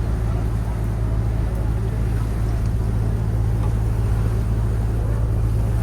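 Tour boat's engine running steadily under way, a continuous low drone.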